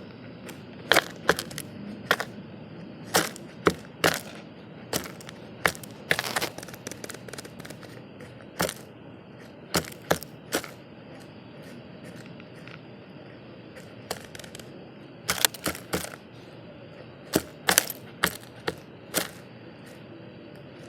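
Birds feeding at a bird feeder: irregular sharp taps and knocks, some in quick runs of two or three, as beaks and feet strike the feeder.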